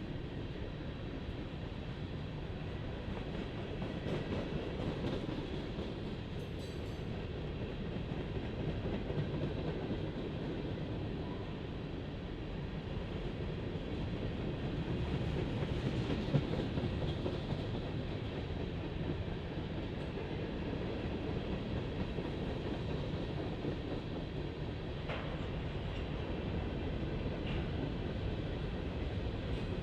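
Freight train cars rolling past on the track, a steady, unbroken sound of wheels on rail.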